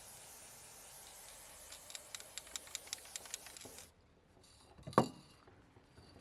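A steady hiss with a quick run of sharp clicks over it, cutting off a little before four seconds in; about a second later comes a single sharp knock that rings briefly, the loudest sound here.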